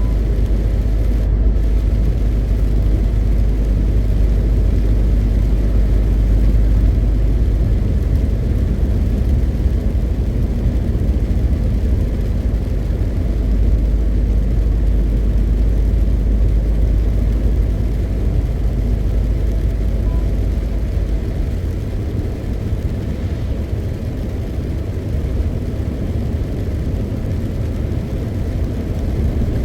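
MAN TGX 520 truck's straight-six diesel engine and road noise while driving: a steady low rumble that eases somewhat about two-thirds of the way in.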